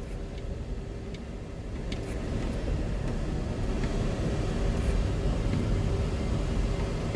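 Car driving, heard from inside the cabin: a steady rumble of road and engine noise with a faint steady hum, growing a little louder over the first few seconds.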